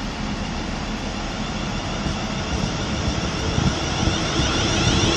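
Siemens Class 350 Desiro electric multiple unit pulling away, its traction motor whine rising in pitch and getting louder over a broad rumble.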